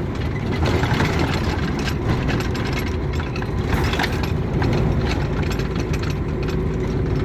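Vehicle engine running steadily at road speed, heard from inside the cab, with tyre and road noise and a few faint clicks.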